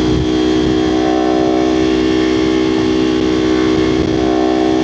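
Kawasaki Ninja 500's parallel-twin engine and exhaust running at a steady cruising speed, a constant drone with no change in revs, over low wind rumble.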